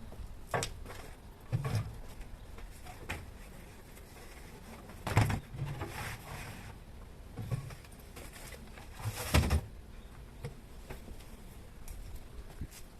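Scattered knocks and clicks of objects being handled, with two louder thuds about five and nine and a half seconds in.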